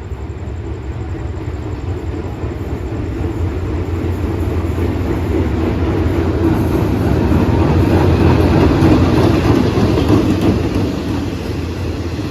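A train passing on the rails: a low rumble with wheel-on-rail noise that swells for about eight seconds, peaks, then eases slightly.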